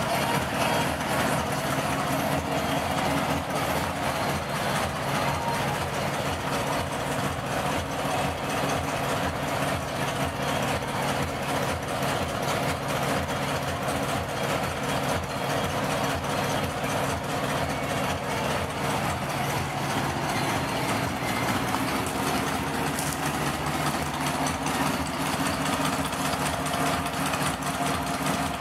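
VW Manx-style dune buggy's engine idling steadily, a fast even pulse with no revving.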